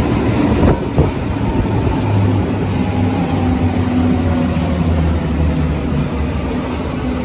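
Berlin U-Bahn large-profile train running, with a steady low hum and a couple of sharp knocks about a second in.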